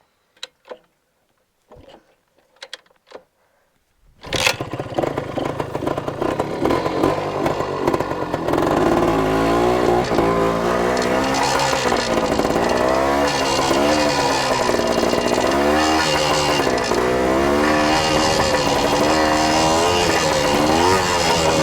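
A few faint clicks, then about four seconds in a dirt bike engine comes in loud and keeps running, its pitch rising and falling over and over as the throttle is worked, with a rushing noise of wind over it.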